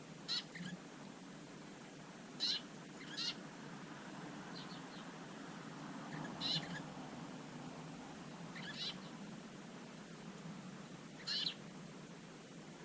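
Garden songbird calls: six short, sharp, high-pitched calls at irregular intervals, with a faint quick run of softer notes about midway.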